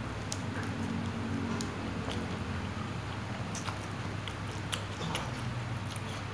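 Close-up chewing of a mouthful of Indomie goreng fried noodles, with many short, scattered wet mouth clicks and smacks.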